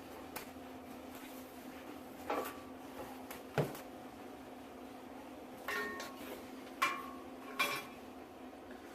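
Scattered clinks and knocks of hard objects being handled, several ringing briefly like metal, about six over the stretch, over a steady low hum.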